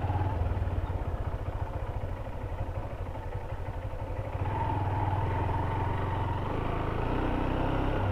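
Honda CB Hornet 160R's single-cylinder engine running as the motorcycle rides, getting louder about halfway through.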